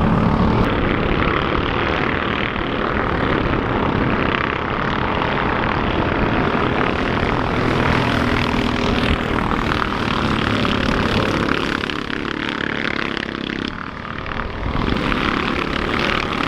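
Engines of junior off-road race vehicles running out on the track, a loud steady drone that dips briefly near the end.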